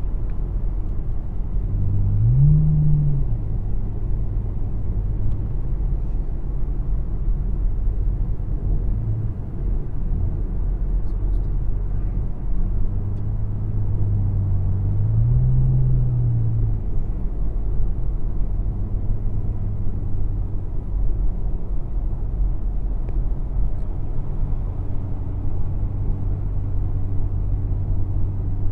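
Car engine running at a steady idle, with a brief rev twice: once near the start and once about halfway through.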